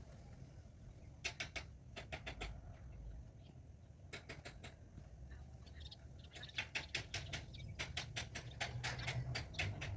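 Rapid dry clicking from a bird, several clicks a second in short runs that become denser and louder over the second half.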